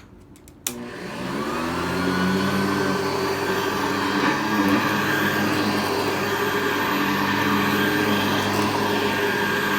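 A 1982 Hoover Convertible U4315 upright vacuum cleaner is switched on with a click. Its motor winds up over about a second, then runs steadily.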